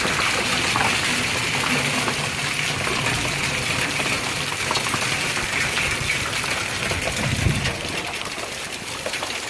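Rainwater gushing and running steadily, with a brief low thump about seven and a half seconds in.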